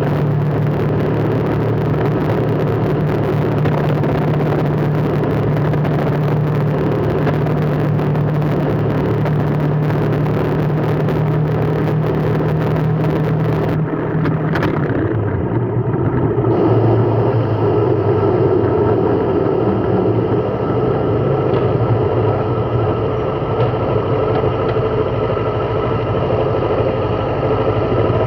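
Vehicle engine running steadily under a broad road-noise hiss. About halfway through, the engine's hum settles to a slightly lower pitch and the high hiss falls away.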